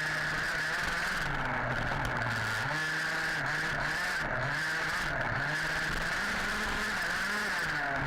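HPI Baja 5B 1/5-scale RC buggy's small two-stroke petrol engine revving up and falling back over and over, about once a second in the middle stretch, heard on board, over a steady high whine.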